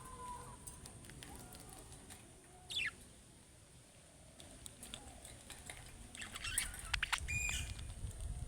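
Budgerigars chirping now and then amid faint scratching and clicks, with one falling chirp about three seconds in and a cluster of short chirps near the end.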